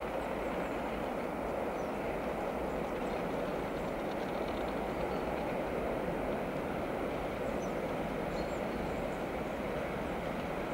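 Distant Bombardier Traxx electric locomotive and its freight train approaching along the line, heard as a steady, even noise that does not yet grow louder. A few faint high chirps sound over it.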